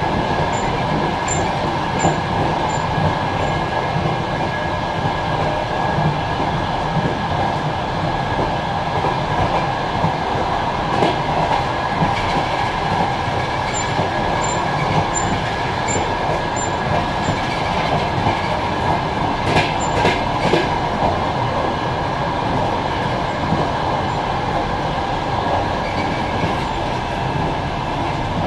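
Passenger train running at speed, heard from inside the last carriage: a steady rumble of wheels on the rails, with a few sharp clicks near the middle as the wheels pass rail joints.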